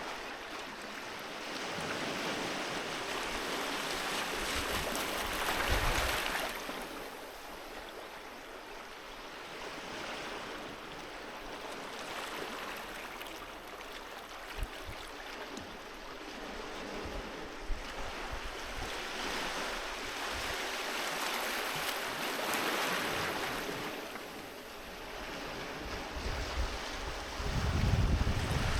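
Sea waves breaking and washing up the shore, swelling and fading in slow surges, loudest about six seconds in, around two-thirds of the way through, and near the end.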